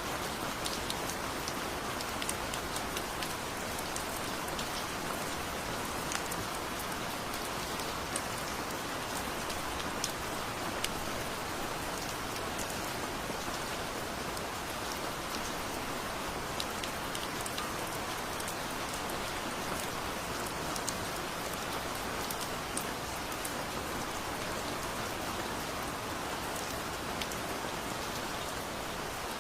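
Heavy rain falling steadily, a dense even hiss with scattered sharp ticks of individual drops striking close by.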